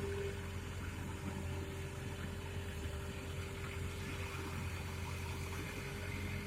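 Excavator's diesel engine running steadily: a low hum with a steady higher whine over it.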